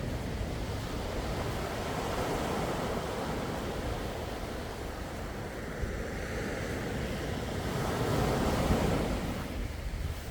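Sea waves breaking and washing in, a steady rush of surf that swells to its loudest about eight seconds in, then eases.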